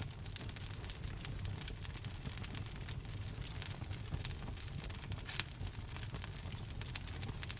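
Wood fire burning in a fireplace, crackling with many small irregular pops and one sharper pop about five seconds in, over a low rumble.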